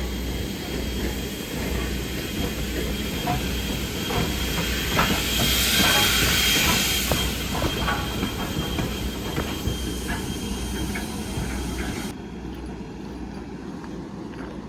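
A train passing, its wheels clicking over rail joints amid a steady rumble, with a hiss that swells to its loudest about six seconds in and fades; the high end drops away suddenly near the end.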